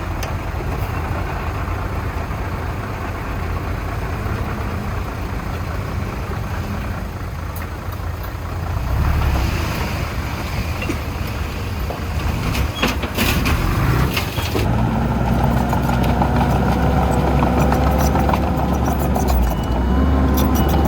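Heavy diesel earthmoving machinery running steadily, with a cluster of sharp knocks and clicks a little past the middle. After that the engine note grows louder and deeper, as under heavier load.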